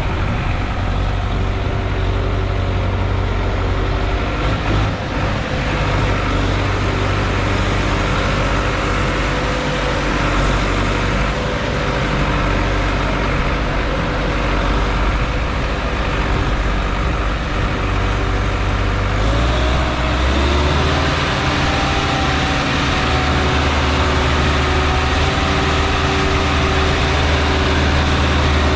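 Sonalika 745 DI RX tractor's diesel engine running steadily while hauling a soil-loaded trolley. About 19 seconds in, the engine note rises to a higher steady pitch.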